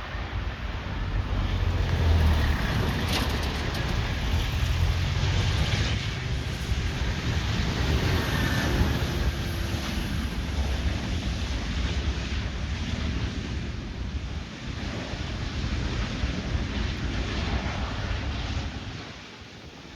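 Jet airliner passing with a deep engine rumble and rushing noise, mixed with wind buffeting the microphone; the noise drops away suddenly near the end.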